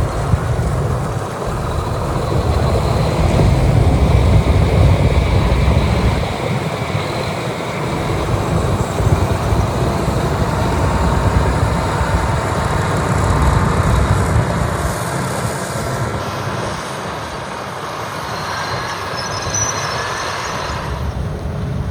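Diesel engines of heavy motor graders working snow, a steady loud low rumble that thins out about two-thirds of the way through.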